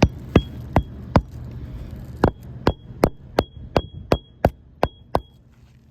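Hammer hand-driving roofing nails through architectural shingles into a cement roof deck: a quick run of about four strikes, a pause of about a second, then about nine more at two to three a second, several blows ringing briefly.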